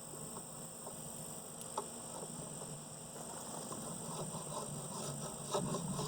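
Honeybees buzzing around an open hive, a steady hum, with a few light clicks scattered through it.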